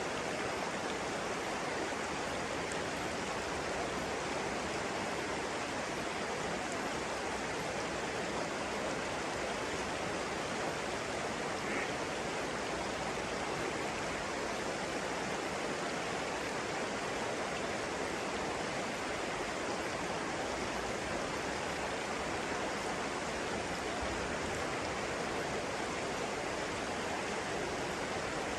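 Flowing water rushing steadily, like a stream or small cascade, with no change in level.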